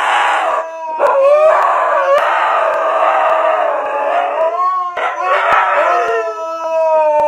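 Dog howling in several long, wavering, drawn-out notes with a hoarse edge.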